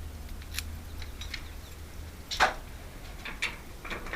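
Small hard clicks and taps of metal lock parts being handled, scattered a second or so apart, with one sharper click about two and a half seconds in.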